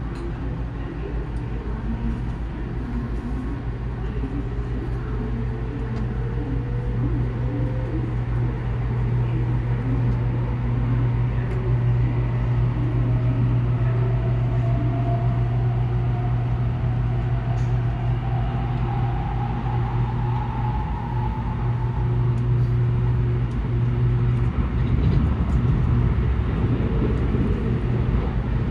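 Inside the cabin of a JR N700S Shinkansen gathering speed: a steady low running rumble and hum, with a faint whine rising steadily in pitch. Near the end the steady hum gives way to a rougher rumble.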